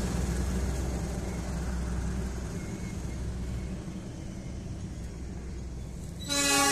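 Diesel locomotive passing close by, its low engine rumble fading about two and a half seconds in as the coaches roll past. Near the end a train horn starts suddenly with a loud, steady multi-tone blast.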